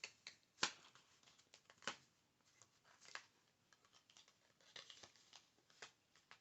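Soft, irregular fingernail taps and handling of Pokémon trading cards, a scatter of short clicks with the sharpest about half a second in and again just before two seconds.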